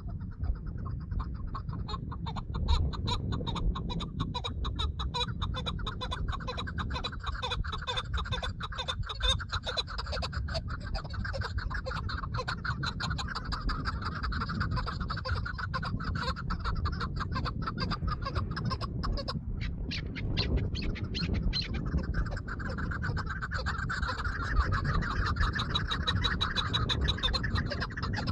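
Chukar partridge calling in a rapid, continuous chatter of short clucking notes, over a steady low rumble.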